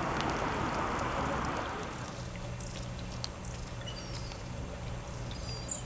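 A steady rushing noise, heavier for the first two seconds, with a low rumble underneath and short, faint high bird chirps in the second half.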